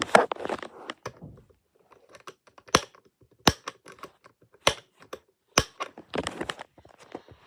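A series of sharp clicks and knocks from handling a desk fan, about four single clicks spaced roughly a second apart, with bursts of rustling and scraping at the start and again near the end.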